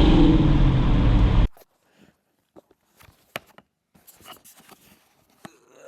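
V8 muscle car engine running loud for about a second and a half, then cut off abruptly. After that, quiet with a few faint scattered clicks and knocks.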